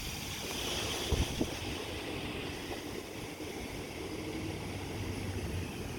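Gusty Santa Ana wind blowing hard, a steady rush that swells about a second in, with brief low thumps of wind buffeting the phone's microphone.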